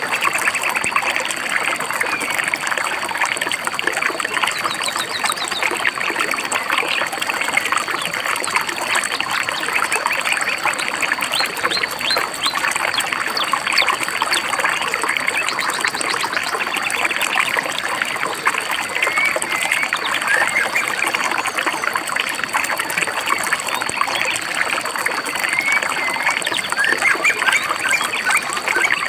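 A stream babbling steadily, with birds chirping and trilling over it again and again.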